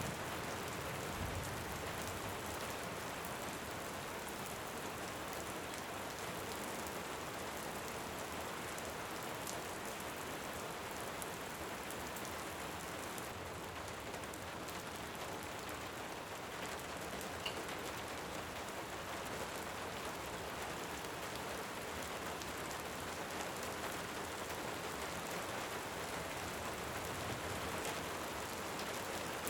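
Steady rain, an even hiss of rain on surfaces, with scattered faint crackles from a wood fire. A faint low rumble of distant thunder sounds just after the start.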